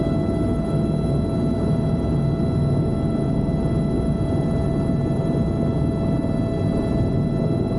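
Helicopter in flight: a steady low rotor and engine rumble with a steady turbine whine on top.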